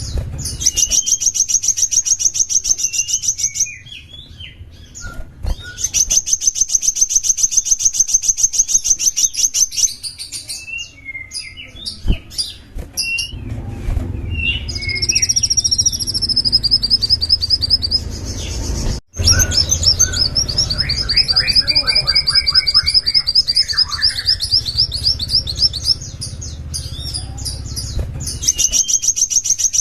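Sunbird song: long, high, rapid trills of a few seconds each, one falling slightly in pitch, repeated with short chirps and twitters between them. A low steady hum runs underneath.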